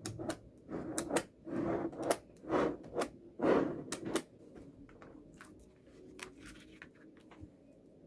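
Small magnetic balls clicking as they snap together and are rolled and pushed into place by hand. A busy run of clicks and short scraping rolls comes in the first half, then only scattered clicks.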